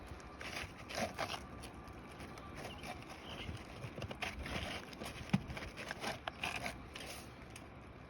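Asphalt roof shingles being handled and worked on a roof during a shingle repair: irregular scraping and crackling with scattered clicks, and one sharp knock about five seconds in.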